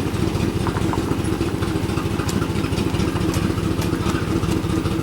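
Swapped-in 1999 5.7-litre V8 idling steadily in a 1997 Suburban, with an exhaust leak at a bad catalytic converter that the owner says he can hear.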